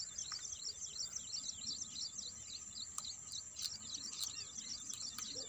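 Small birds chirping continuously in a quick, high-pitched run of short calls, several a second, with a single faint click about three seconds in.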